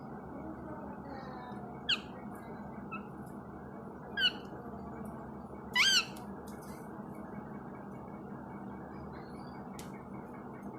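Pet green parrot giving three short, shrill squawks, about two seconds apart, the last one the longest and loudest, over a steady low background hum.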